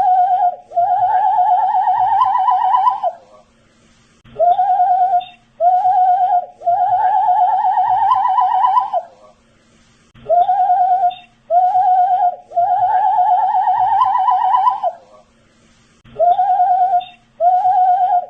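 A man whistling the same short tune over and over: two short notes, then a long wavering note that rises slightly. The phrase repeats identically about every six seconds, a looped clip, with a faint steady hum underneath.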